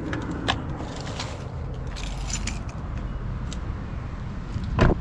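Low steady rumble of a car, with scattered light clicks and jingling like keys being handled, and one sharp knock just before the end.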